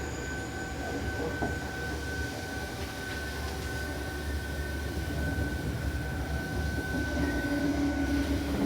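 Seibu New 2000 series electric train running at speed, heard from inside the car: a steady rumble of wheels on the rails with a steady high whine. A lower hum comes in near the end.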